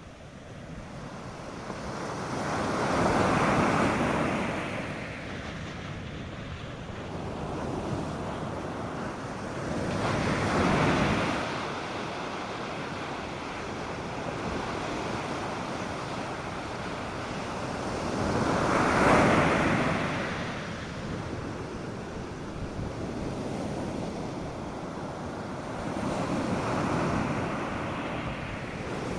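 North Sea surf on a sandy beach: waves breaking and washing in four times, about seven to eight seconds apart, with a steady hiss of water between the breakers.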